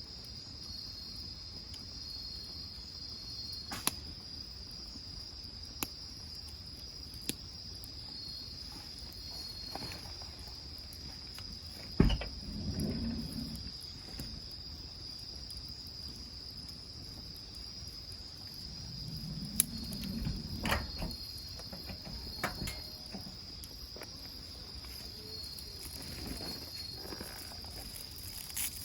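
Insects trilling steadily at a high pitch, with a few sharp crackles from the wood fire, a single loud knock about twelve seconds in, and brief low rustling twice.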